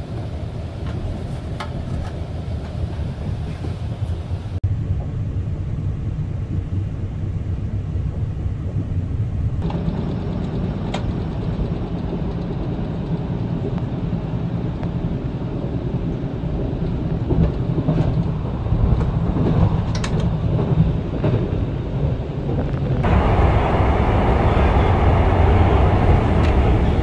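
Steady low rumble of a moving passenger train heard from inside the carriage, with a few faint clicks. The sound changes abruptly several times and is louder and brighter near the end.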